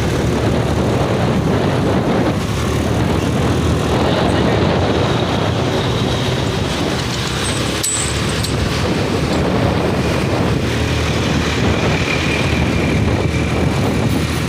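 Steady vehicle and road noise heard while riding a motorcycle on a ghat road: engine, tyres and wind mixed in a continuous rush, with a brief click about eight seconds in.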